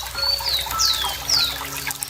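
Running water trickling steadily, with a bird calling over it: a short high whistle, then three quick notes that each sweep downward.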